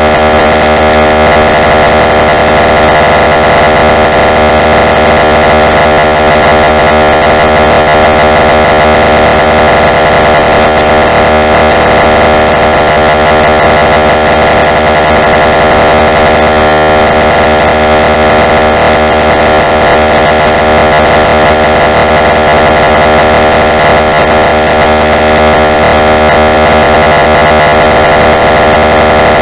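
Very loud, harsh electronic sound: a steady synthesized drone of many pitches at once mixed with noise, held without a break, made to be irritating.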